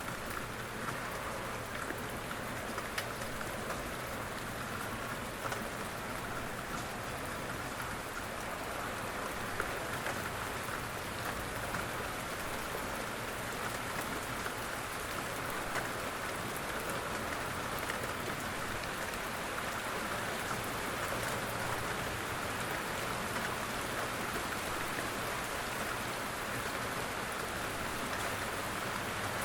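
Steady rain falling, an even patter with many small drops ticking on a surface.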